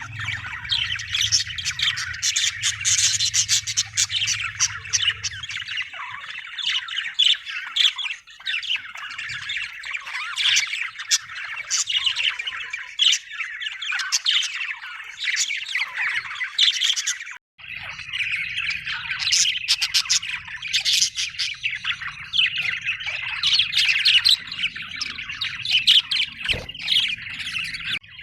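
Budgerigars chattering: a dense, unbroken stream of overlapping chirps and squawks, with a brief gap a little past halfway.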